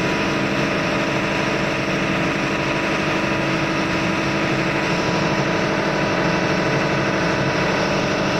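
Steady drone of ship's engine-room machinery running continuously, with constant humming tones over a dense noise and no change in speed or level.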